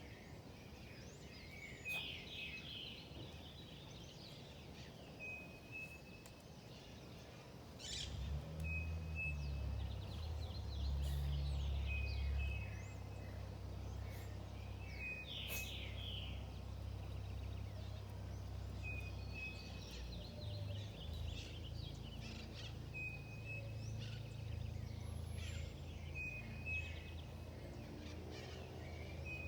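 Birds calling: one repeats a short, steady high whistle about every three seconds, with bursts of chirping between. A low rumble comes in about eight seconds in and continues underneath.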